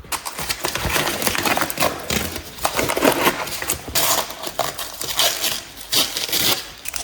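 Small metal objects clinking and clattering as they are moved by hand, a rapid, uneven series of light knocks.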